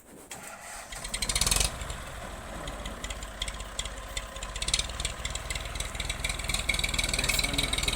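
Tractor engine running while pulling a heavy load of wood, with a louder burst about a second in, then growing gradually louder.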